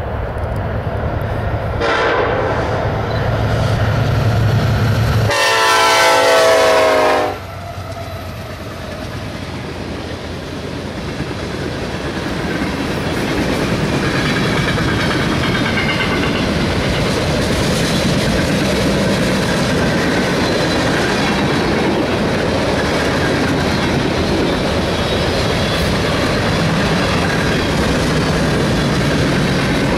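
Freight train's diesel locomotive horn sounding as it approaches, first faintly, then a loud blast about five to seven seconds in that cuts off sharply. The long train of refrigerated boxcars then rolls past steadily, with wheels clacking over the rail joints.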